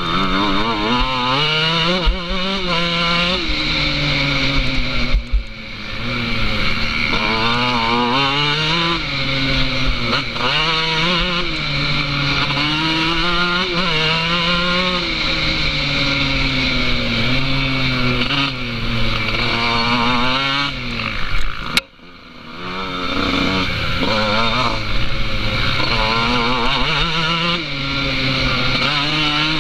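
Rally car engine heard from on board, its revs climbing and falling again and again as it is driven hard along the stage, with a brief lift-off cut about three-quarters of the way through.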